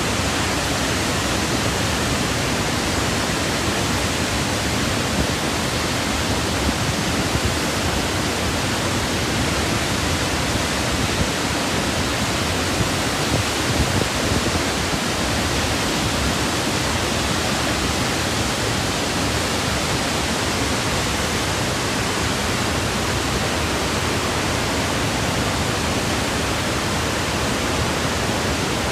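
Victoria Falls, the Zambezi River plunging over the falls: a steady, dense rush of falling water with no change in level.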